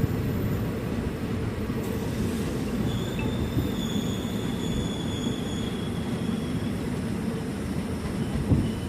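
Indian Railways express train running on the rails: a steady low rumble of the wheels and coaches, with a thin high wheel squeal from about three seconds in that fades out near seven seconds and returns briefly near the end.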